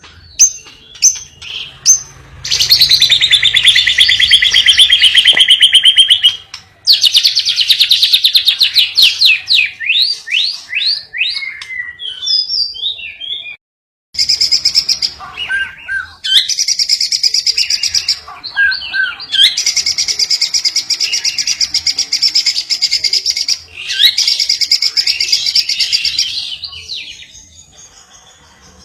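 Lovebird and canary song: long, fast trills and chattering runs of high notes, broken by short pauses, with a brief cut to silence about halfway through.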